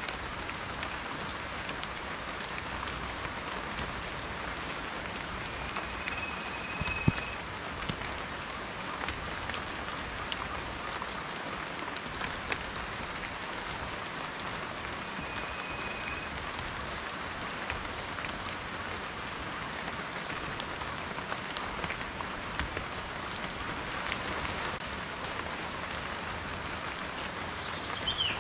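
Steady rain with individual raindrops ticking on a surface, and one sharper tap about seven seconds in.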